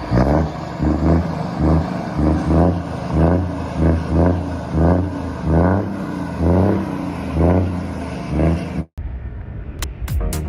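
Scania truck diesel engine revved in a string of short blips, about one or two a second, each rising and falling over a steady low rumble; the revving cuts off abruptly near the end.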